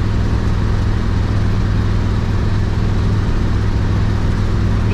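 1972 Oldsmobile Cutlass with a 350 Olds V8 running steadily while driving: an even, unchanging low engine drone mixed with road noise.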